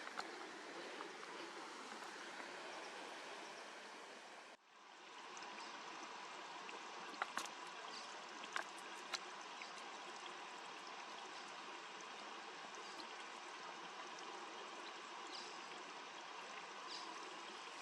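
Steady rush of a flowing stream, with a few sharp clicks near the middle.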